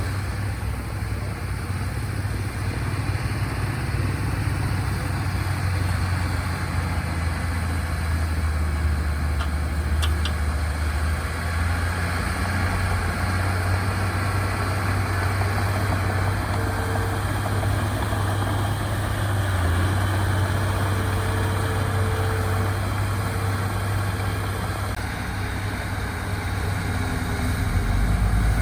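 Diesel engines of heavy earthmoving machines running steadily with a low rumble, with a deeper engine note coming in near the end.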